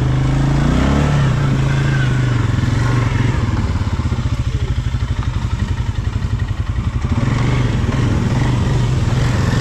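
ATV (quad bike) engine running hard close by, its revs rising about a second in, easing off in the middle and climbing again near the end, as it is ridden through the mud.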